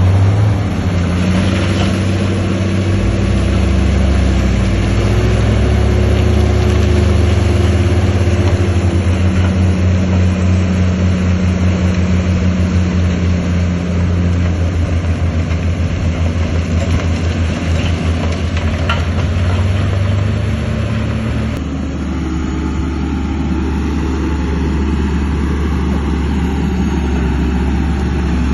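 Heavy diesel engines of earthmoving machinery running steadily, with the engine note shifting and throbbing in the middle. The sound changes abruptly about three-quarters of the way through, to a lower, quieter engine note.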